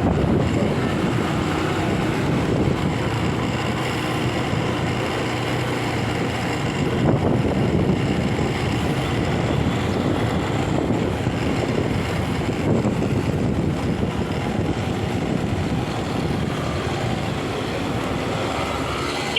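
Motorcycle engine running on the move, with wind rushing over the phone's microphone.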